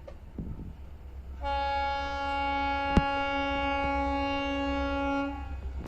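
Goods train locomotive's horn sounding one long steady blast of about four seconds, starting a second and a half in, over a low rumble. A single sharp click falls midway through the blast.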